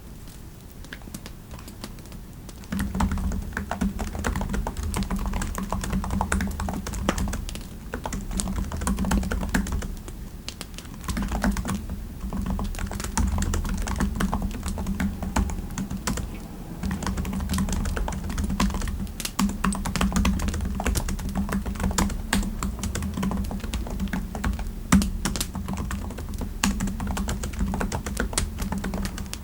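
Typing on a computer keyboard: quick runs of key clicks that start about three seconds in and pause briefly a few times, with one louder keystroke near the end.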